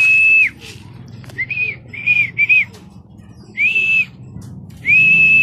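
A person whistling on one steady high pitch to call racing pigeons into the loft trap. It goes as a long note, then a quick run of three short notes, a short note, and another long note near the end.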